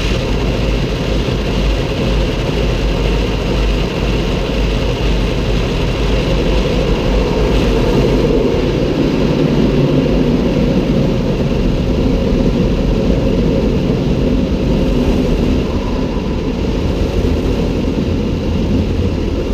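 Automatic car wash running, heard from inside the car: a loud, steady rumble of water spray and wash machinery.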